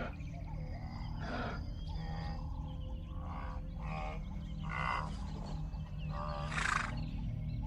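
Leopard growling: several short, rough growls at irregular intervals, the loudest near the end, over a steady low rumble.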